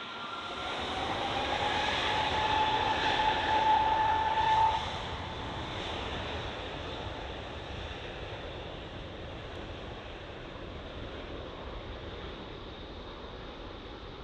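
Jet airliner passing close by: its engines' rush of noise and a steady whine build over the first few seconds, drop sharply about five seconds in, and leave a lower rumble that slowly fades.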